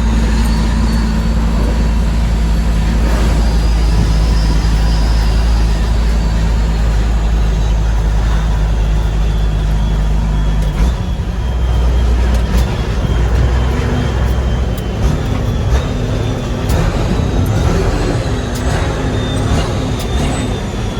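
Heavy diesel truck engine running under way, a steady drone that about halfway through gives way to an uneven note rising and falling in pitch, with a faint high whine above it.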